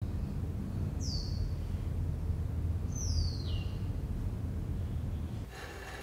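Outdoor ambience: a low steady rumble with a bird giving two falling whistled calls, one about a second in and a longer one, dropping in two steps, about three seconds in. The ambience cuts off about five and a half seconds in as soft music begins.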